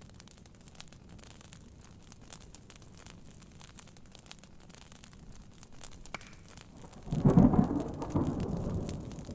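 Rain pattering on a tent with scattered sharp crackles from a wood fire, then about seven seconds in a loud rumble of thunder breaks in suddenly and fades over a couple of seconds.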